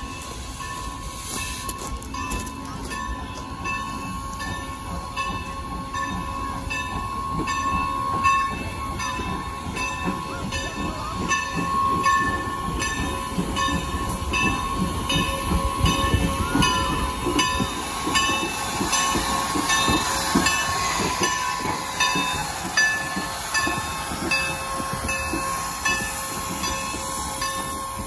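Steam train sounds: a steady hum with a regular tick about twice a second over a low rumble that grows louder through the middle and eases toward the end.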